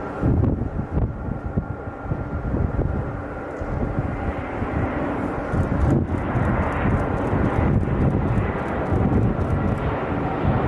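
Jet airliner's turbofan engines running loud: a continuous deep rumble, with a faint steady whine over it in the first half.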